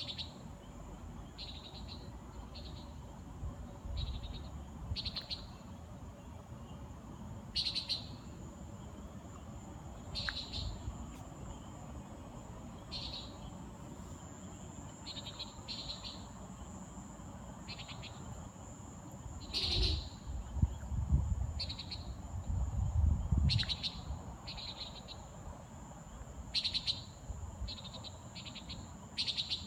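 Nighthawk flying overhead giving short calls, about twenty of them at irregular one- to two-second gaps, some louder and nearer than others. A steady high insect trill runs beneath, and a low rumble comes about two-thirds of the way through.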